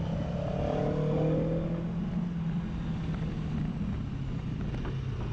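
Aprilia Tuono V4 1100RR's V4 engine, on its stock exhaust, running steadily under way, heard from on board the motorcycle with wind noise. A higher note in the first two seconds falls slightly, then the engine holds a steady note.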